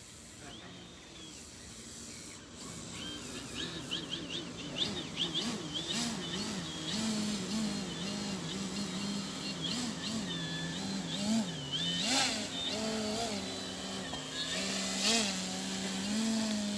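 Small gasoline engine of a radio-controlled model airplane running, its pitch wavering up and down over and over; it grows louder over the first few seconds.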